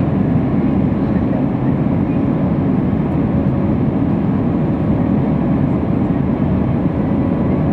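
Steady roar of an Airbus A319's jet engines and airflow heard inside the passenger cabin during the climb after takeoff, with a faint steady tone running through it.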